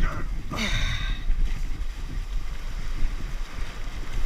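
Wind buffeting the microphone in an uneven low rumble, with a brief falling-pitched sound about half a second in.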